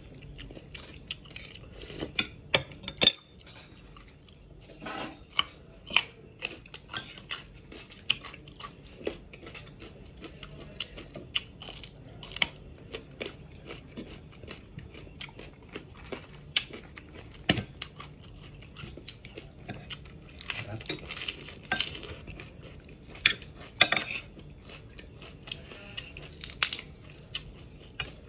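Chewing and crunching of raw vegetables, including bites of raw carrot: irregular crisp crunches throughout.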